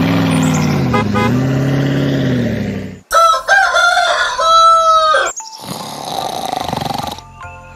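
A rooster crowing a little past the middle, after a loud, long, low-pitched sound that dips in pitch about a second in.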